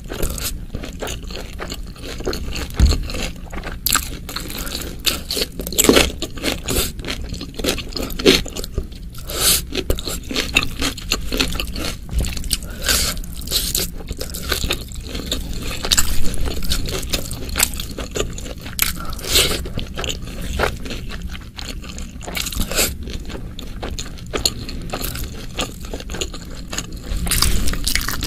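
Close-up eating sounds: chewing of spicy beef stir-fry and rice eaten by hand, with irregular clicks and crunches, and fingers scraping rice and meat together across a banana leaf.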